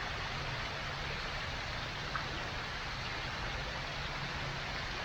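Steady rushing background noise with a low rumble underneath, unchanging, with no distinct events.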